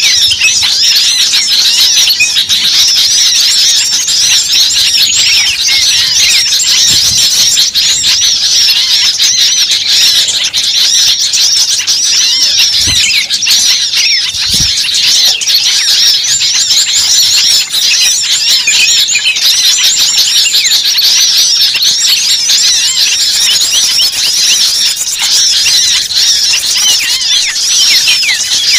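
Bird-lure recording: a loud, dense chorus of many small birds calling at once, fast high-pitched chirps and trills overlapping without a break.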